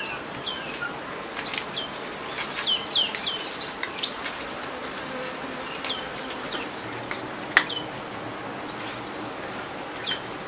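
Small birds chirping: short, quick falling chirps, repeated irregularly, over a faint steady hiss, with a single sharp knock about seven and a half seconds in.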